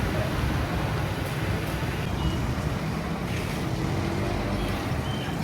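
Busy city street traffic: a steady, dense mix of motor engines and road noise.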